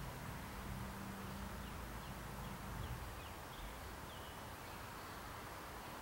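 Faint bird chirping, a run of short falling notes, over a steady outdoor hiss and a low rumble that fades out about halfway through.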